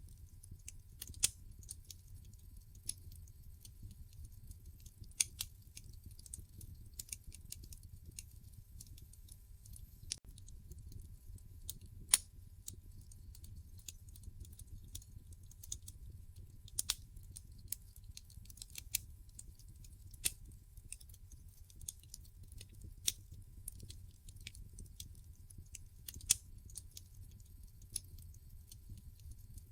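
Wood fire in a fireplace crackling: sharp, irregular pops and snaps from the burning logs over a low, steady rumble of the flames, with a few louder pops about a second in, near the middle and late on.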